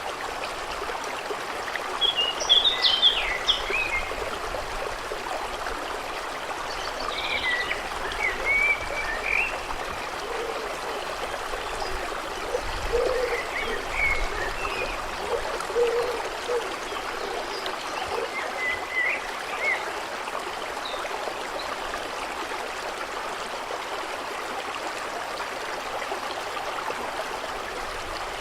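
A stream flowing steadily, with birds chirping in short bursts now and then, plus a few short lower calls near the middle.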